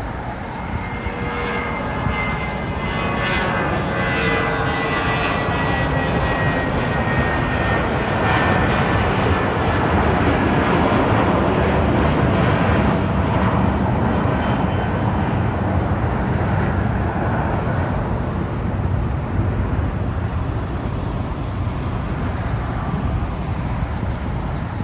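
Jet airliner passing close by, its engine whine sliding down in pitch in the first few seconds while the roar builds to a peak about halfway through, then slowly fades.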